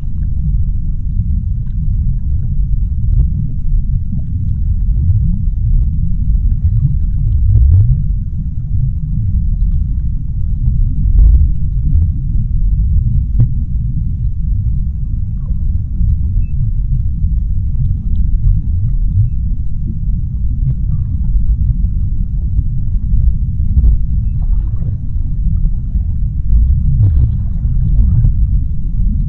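Underwater ambience: a steady deep rumble, with faint short clicks and crackles scattered over it.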